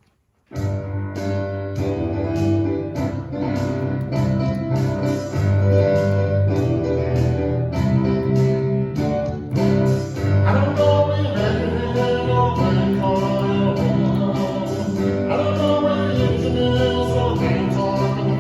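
A Christian children's song with guitar and singing, starting abruptly about half a second in, with the voices growing fuller about ten seconds in.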